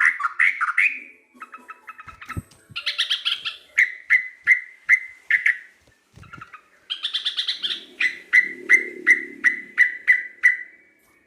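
Yellow-vented bulbul (trucuk) singing: three phrases, each a quick jumble of notes followed by a run of clear repeated notes on one pitch, about two to three a second.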